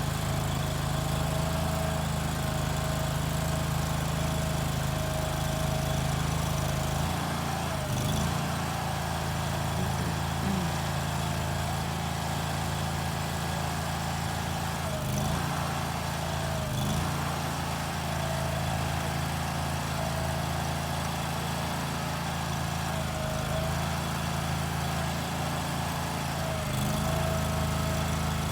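An engine running steadily at a constant speed, with a few brief wobbles in pitch.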